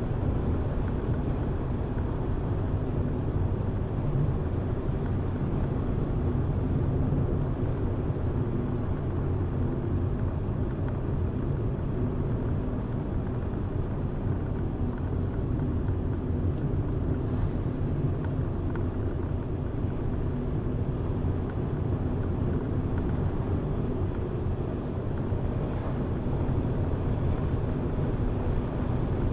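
Car driving along at a steady pace: an even low rumble of engine and tyres on the road, unchanging throughout.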